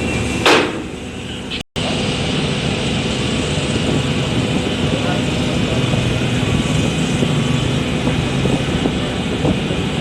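Steady, loud machinery drone aboard a ro-ro car ferry, with a fixed low hum, a brief sharp knock about half a second in, and a momentary dropout shortly after.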